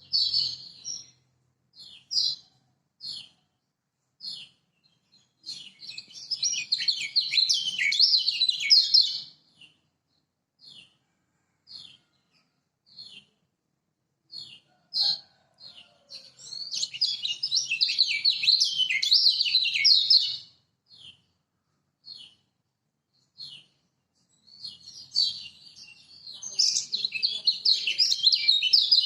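Lombok kecial kuning (yellow white-eye) singing: single short, high chirps about a second apart, broken three times by fast, busy warbling phrases lasting three to four seconds each.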